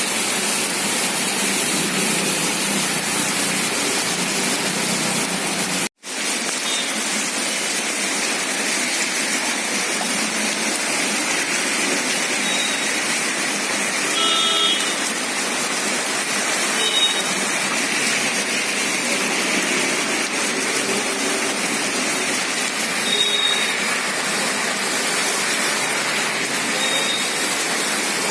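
Heavy rain pouring down in a steady hiss, broken by a sudden momentary cut about six seconds in. A few short high beeps sound over it in the second half.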